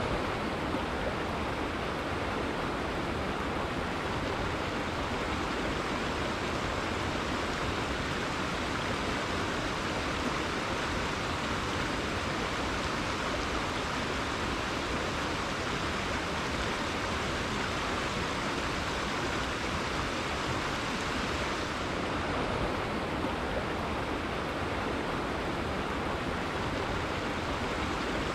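River flowing: a steady, even rush of water with no breaks.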